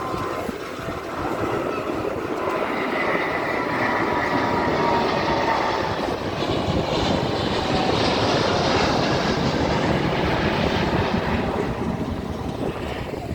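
Jet airliner passing close by: engine noise that builds over the first few seconds, holds loud, and eases near the end, with a whine that sinks slightly in pitch as it passes.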